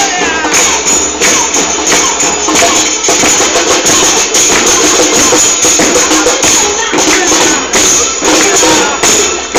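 Murga percussion: bass drums with cymbals mounted on top (bombos con platillo) played in a fast, steady rhythm, the cymbals' jingling clash dominating, with voices mixed in.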